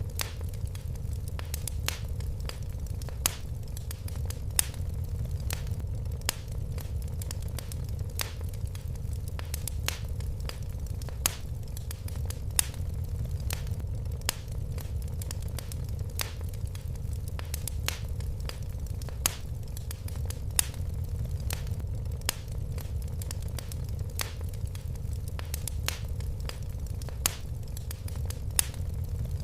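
Wood fire crackling in a fireplace: irregular sharp crackles and occasional louder pops over a steady low rumble of the flames.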